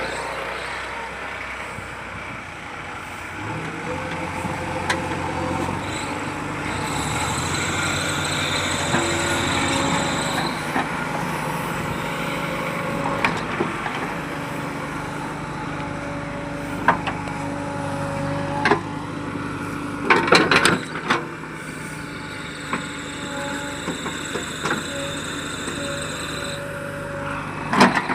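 Heavy diesel machine engine running, its pitch stepping up and down, with a high steady whine at times and several sharp metallic knocks, the loudest cluster about two-thirds of the way through.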